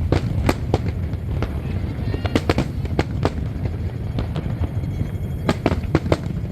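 Aerial fireworks going off: a quick irregular series of sharp bangs and cracks, bunched into two volleys, over a steady low rumble.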